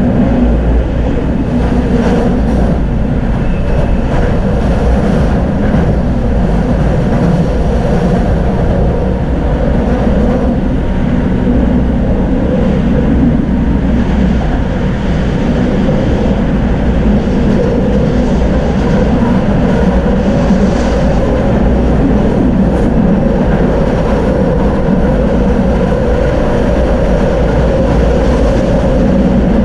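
Tram running along its track: a steady rumble of steel wheels on the rails with the hum of its drive.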